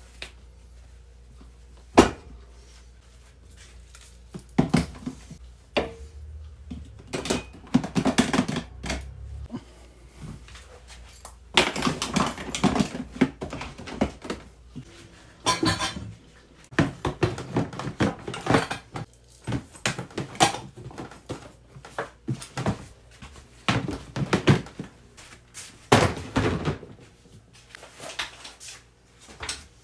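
Camping gear being handled: a single sharp knock about two seconds in, then a long run of irregular clunks and clatter.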